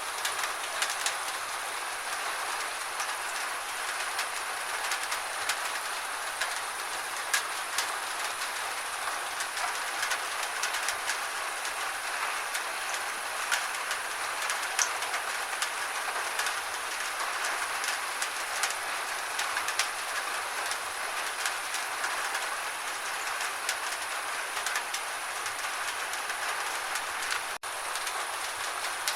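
Gentle steady rain: an even hiss of rainfall with many small drop ticks scattered through it.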